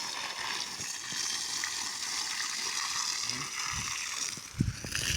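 Steady hiss of outdoor background noise, with a few low thumps near the end, the sharpest about four and a half seconds in.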